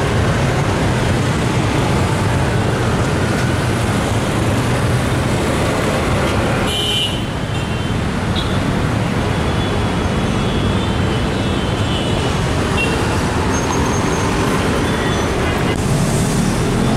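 Steady road traffic noise: the engines of cars, buses and motorcycles running in a dense, continuous mix.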